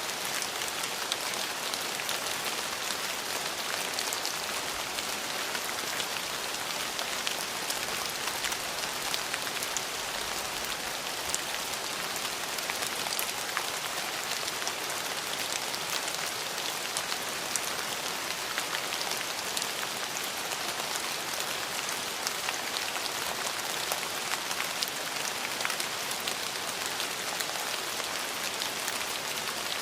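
Steady rain falling, an even hiss thick with fine, close-spaced drop ticks.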